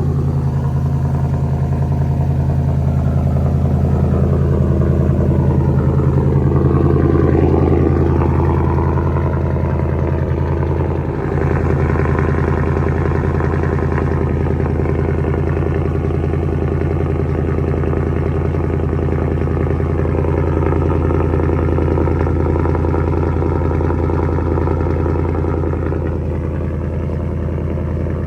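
Ford F-150's 5.0 Coyote V8 idling steadily just after a true cold start, heard through a true-dual exhaust with an H/X crossover pipe and its mufflers and resonators deleted. The idle rises a little a few seconds in and settles slightly lower near the end.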